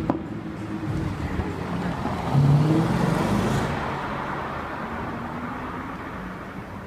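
A car engine in street traffic: its note swells about two and a half seconds in and then fades slowly as the car pulls away.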